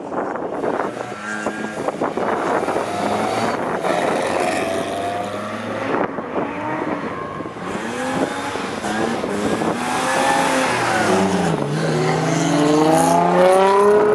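Ford Escort rally car's engine revving hard through the bends, its pitch climbing and dropping again and again with the gear changes. It grows louder near the end as the car comes closer.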